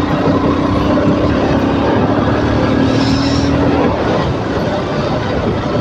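KTM RC motorcycle's single-cylinder engine running at low road speed, with wind and tyre noise over the microphone. The engine note holds steady for about four seconds, then becomes rougher.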